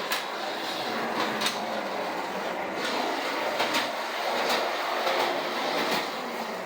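Early Lionel toy trolley running on its track: a steady whirring rattle of the motor and wheels, with a sharp click every second or so.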